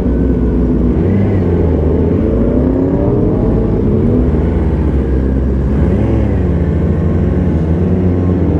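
Yamaha R6 600cc inline-four sport bike engine pulling away, its pitch rising and dropping several times as it accelerates and shifts up through the gears.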